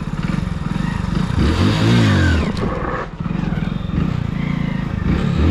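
Hero Splendor's single-cylinder four-stroke engine idling, then revved once about a second and a half in, its pitch rising and falling back. Another rev begins near the end. These are throttle blips ahead of a wheelie attempt.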